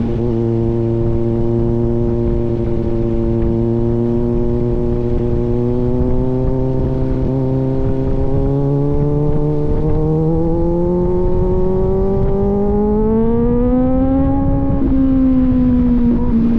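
Kawasaki Z900's inline-four engine through an aftermarket AR exhaust while riding, holding a steady note, then rising gradually in pitch through the second half under acceleration and easing back slightly near the end.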